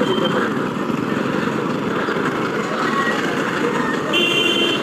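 Riding a motorcycle through city traffic: a steady rush of engine and road noise, with a vehicle horn sounding briefly near the end.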